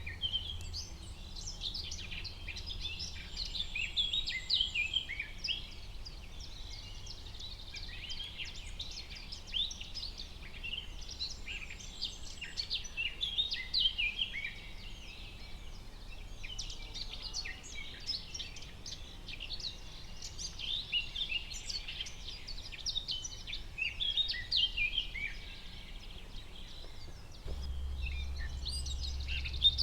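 Forest ambience: many small birds chirping and singing over one another in a dense chorus, over a low steady rumble that grows louder near the end.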